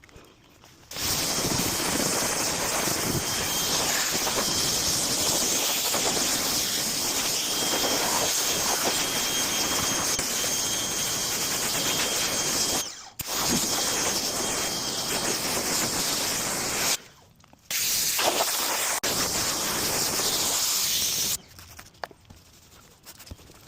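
A high-pressure spray jet hisses steadily in three long runs, typical of car-wash detailing work. It cuts out briefly twice and stops near the end.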